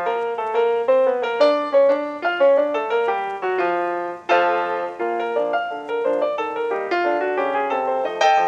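Background music: piano playing a steady run of notes, with a louder chord struck about four seconds in.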